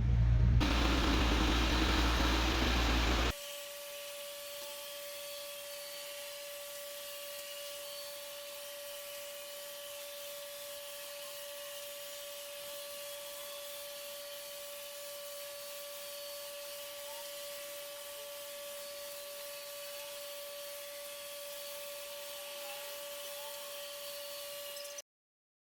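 Xiaomi Mijia Mop P robot vacuum running, a steady hiss with a constant whine from its fan. For about the first three seconds a louder rushing noise with a low rumble covers it, then cuts off suddenly. The whine stops abruptly near the end.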